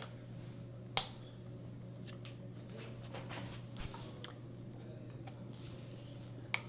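Light clicks and taps of hand tools and bicycle parts being handled during stem removal, with one sharp click about a second in and another near the end. A steady low hum runs underneath.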